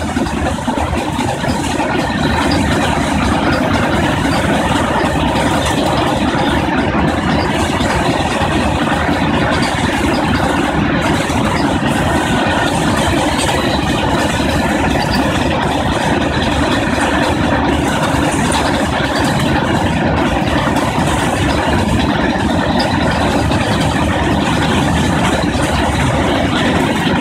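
Open-top freight wagons of a goods train rolling past, making a steady, loud noise of steel wheels running on the rails.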